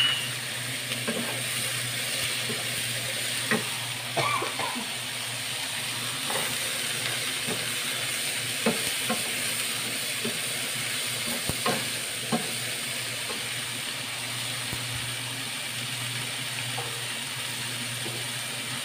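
Sliced green chilies and anchovies sizzling in oil in a non-stick frying pan, stirred with a wooden spatula that knocks against the pan a handful of times.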